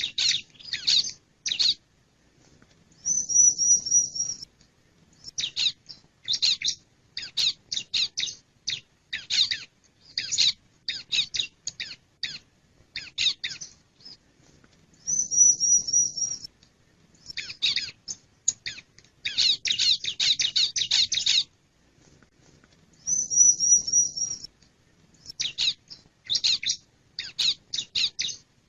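Male bar-winged prinia (ciblek) calling: bursts of quick, sharp high chirps, broken three times by a longer trill of rapidly repeated high notes lasting over a second.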